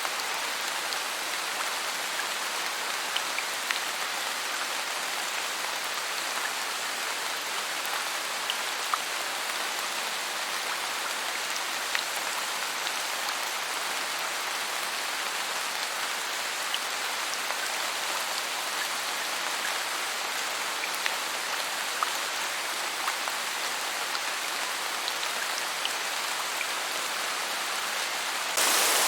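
Steady rain falling, with scattered individual drops ticking through the hiss. Shortly before the end it abruptly gets louder and brighter.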